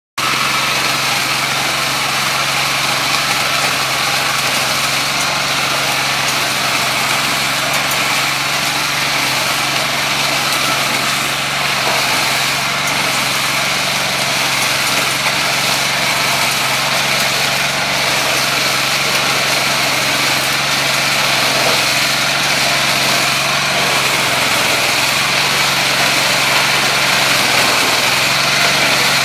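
A small engine running steadily at constant speed, with an even mechanical hum and no changes in pitch.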